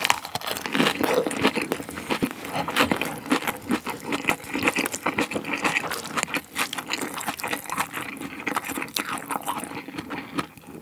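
Close-miked chewing of a mouthful of lettuce wrapped around spicy pork bulgogi and scallion salad: a dense, irregular run of crisp crunches and mouth clicks.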